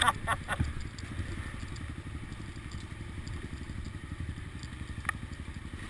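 Off-road vehicle engine idling steadily with a fast, even low pulse. A few light clicks near the start and one sharp click about five seconds in.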